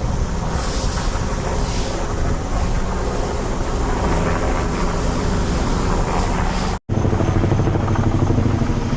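A steady engine or motor running with a constant rumble. It is cut off abruptly for an instant about seven seconds in, then carries on as a steadier low hum.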